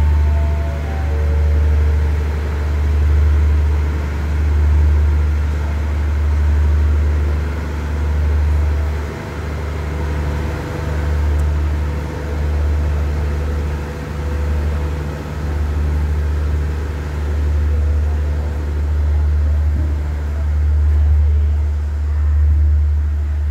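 Diesel passenger train rumbling low as it pulls out of the station, the rumble swelling and fading every couple of seconds.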